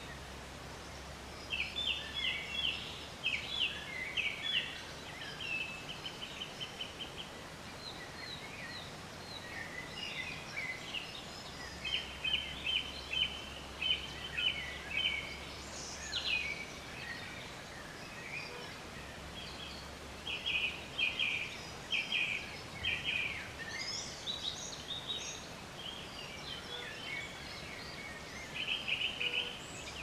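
Wild birds calling: bursts of rapid repeated notes, a second or two each, recurring every several seconds. A faint low hum sits underneath.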